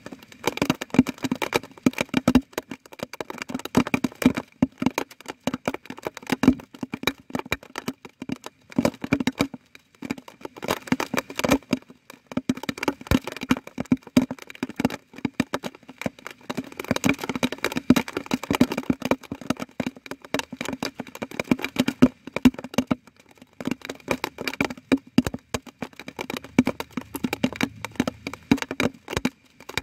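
Rain falling close to the microphone: a dense, irregular patter of sharp drop hits.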